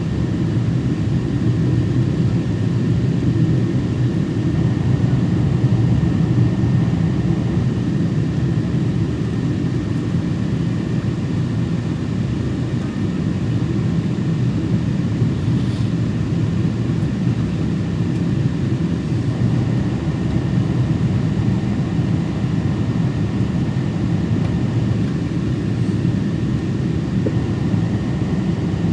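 Steady jet engine and airflow rumble heard from inside the cabin of a Boeing 777-200 in flight, deep and even, with a faint thin whine above it.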